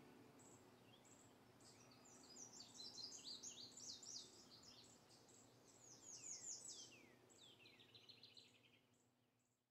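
Faint birdsong: a small songbird singing quick high chirps and warbling phrases with downward-sweeping notes, ending in a short rapid trill and stopping just before the end.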